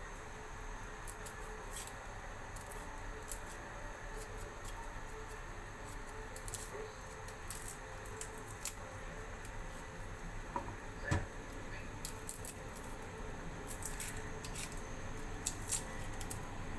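Pot of chicken soup boiling, with a steady bubbling hiss and scattered small pops and ticks. There is a light knock about eleven seconds in.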